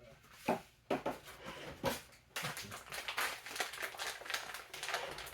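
Kitchenware knocking a few times, then from about two and a half seconds in a steady, dense rattle of something being poured into a pot.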